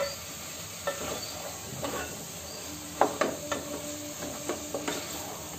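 Singri pods frying in oil in an aluminium pot with a soft steady sizzle as their water cooks off. From about three seconds in, a wooden spoon stirs them and knocks against the pot a few times.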